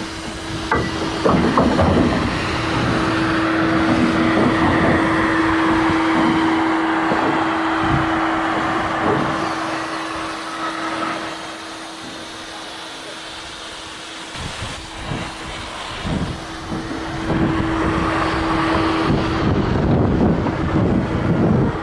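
Locomotive working: a steady tone holds for most of the time over a hissing noise, with scattered knocks and clanks. It eases off in the middle, then builds again.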